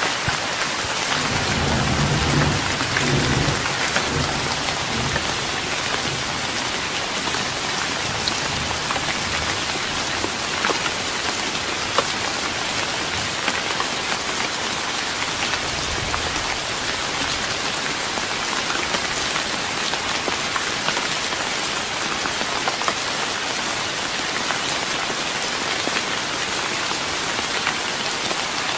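Steady rain pattering on a wooden deck, with a low rumble of thunder from about one to five seconds in and a fainter one a little past the middle.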